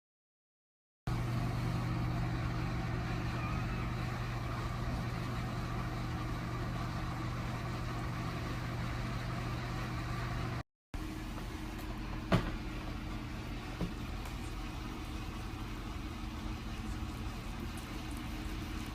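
Steady hum of a running electric room heater's fan, with a low tone under it. The sound cuts out for a moment about eleven seconds in, and a single sharp click follows about a second later.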